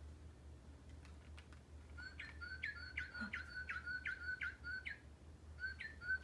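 Recorded northern cardinal song. About two seconds in, a run of quick down-slurred whistles begins, about two to three a second. It breaks off briefly near the end and then starts again.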